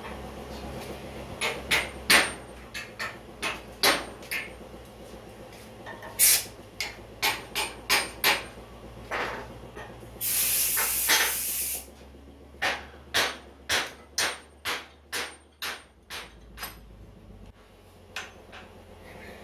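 A series of sharp knocks in irregular groups, then a steadier run of about eight knocks near the end. About ten seconds in, a hiss lasts about two seconds.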